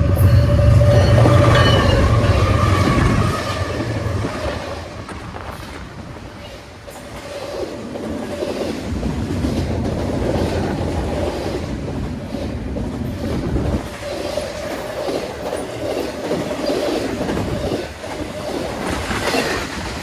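Intermodal freight train passing. The lead diesel locomotives rumble loudly for the first three seconds or so and then fade, leaving the cars rolling by with the clickety-clack of wheels over the rail and a thin, steady wheel squeal.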